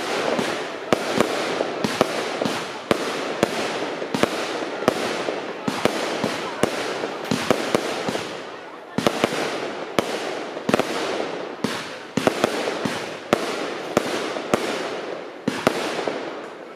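Fireworks display: aerial shells bursting in quick succession, sharp bangs about two or three a second, with continuous crackling between them.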